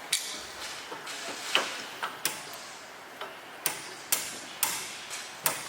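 Light metal-on-metal taps, about eight sharp knocks at an uneven pace, from a wrench being used to tap a turbo-kit part into place.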